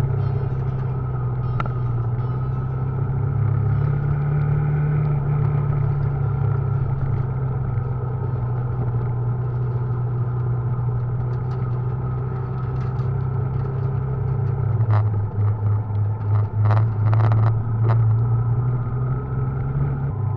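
Motorcycle engine running steadily under way, with road and wind noise on the handlebar-mounted camera. About fifteen seconds in, the engine note shifts and a few short knocks and rattles come through.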